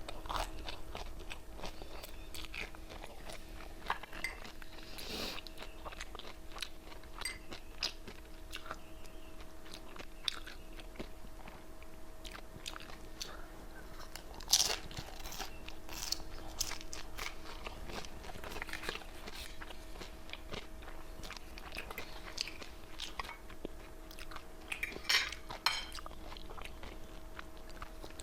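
Close-up eating sounds: crisp deep-fried wonton wrapper chips being bitten and chewed, a run of crunches and crackles with sharper, louder bites about halfway and again near the end. A faint steady hum lies underneath.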